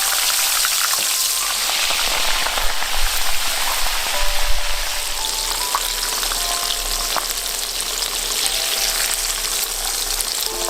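Chicken pieces and basil leaves deep-frying in hot oil in a wok, a steady dense sizzle with fine crackling: the second frying that makes the chicken extra crispy.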